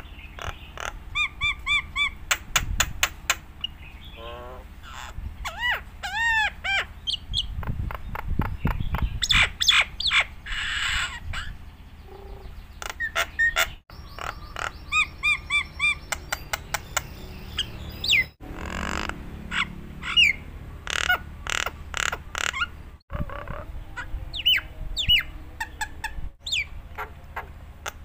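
A jalak Nias starling singing a long, varied song. It mixes sharp clicks and ticks, clear whistles repeated in short sets of three or four, and a few harsh, rasping notes.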